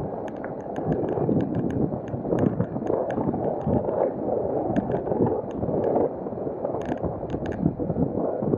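Wind buffeting the microphone while riding a bicycle, an uneven rushing, with frequent short clicks and rattles throughout.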